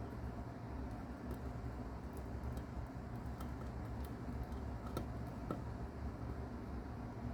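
A mouse chewing on a cicada: scattered small, crisp clicks as it bites through the insect's hard shell, over a steady low hum.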